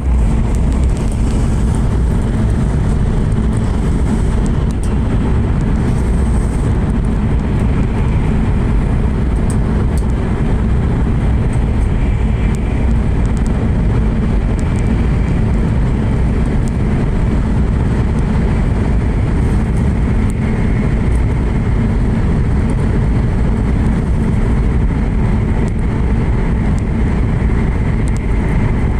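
Steady low rumble of a Joetsu Shinkansen bullet train running through a tunnel, heard from inside the passenger cabin.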